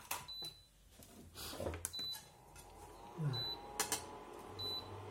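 Induction cooktop's control panel giving four short high beeps as it is switched on and set, with a few clicks between. Near the end a steady low hum sets in as the hob detects the pan and starts heating, showing the raised coil now sees the cookware.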